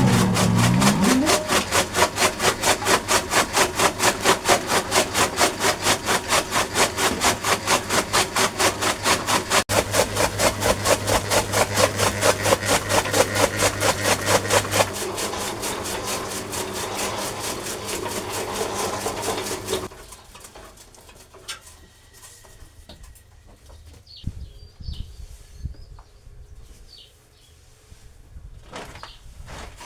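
A motor-driven machine running with a steady hum and a fast, even chopping beat of about four strokes a second. Around halfway through the beat gives way to a smoother run, and the machine stops about two-thirds of the way in, leaving faint bird calls.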